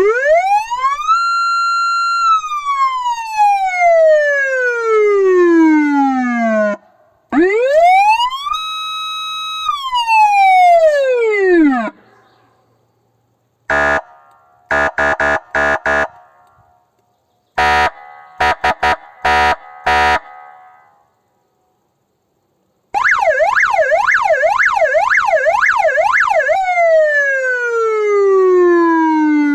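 Electronic police siren from a 400 W vehicle siren-loudspeaker unit running through its signal modes. First comes a long wail that climbs, holds and falls, then a shorter rise and fall. Next come two groups of short, harsh horn blasts (the Russian "kryakalka" quack). It ends with a fast up-and-down yelp that turns into a falling tone.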